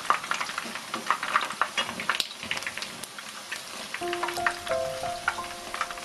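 Batter-coated squid strips frying in shallow oil in a pan, with constant crackling and spitting. Soft background music comes in about four seconds in.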